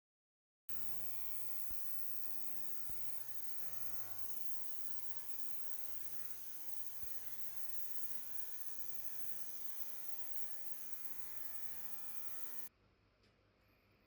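Steady electrical mains hum with a hiss over it. It starts suddenly about a second in and cuts off abruptly near the end.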